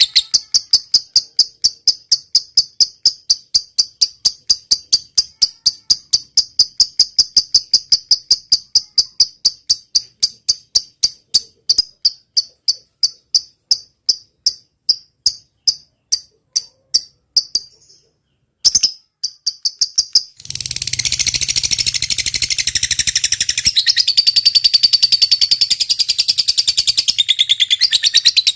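A cricket chirping high and evenly, about four chirps a second; the chirps thin out and stop a little over halfway through. After a short pause, a dense, continuous high trilling starts, with a low hum beneath it.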